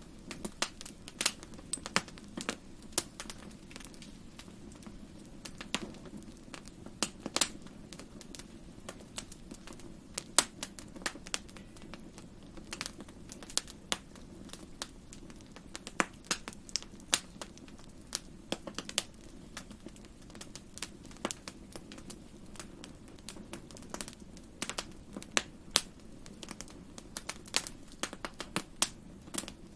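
Wood campfire crackling: irregular sharp pops and snaps, a few much louder than the rest, over a steady low rush of the burning fire.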